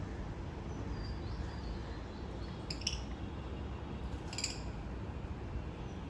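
Lovebirds giving short, high chirps, twice: about three seconds in and again a second and a half later, with a faint thin whistle before them, over a steady low hum.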